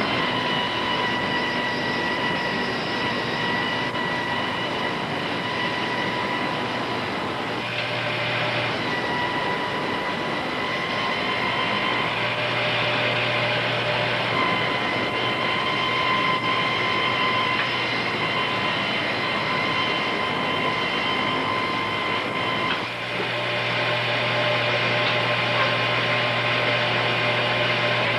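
Electric saw-type grooving machine running steadily with a whine as cedar strips are fed through it to cut the groove in their edges, over a low electrical hum. The sound dips briefly about 8 seconds in and again near 23 seconds.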